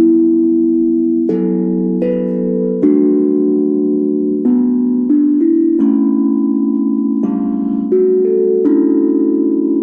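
Steel tongue drum played as a slow melody: about a dozen struck notes, each ringing on long and overlapping the next in a soft, bell-like wash.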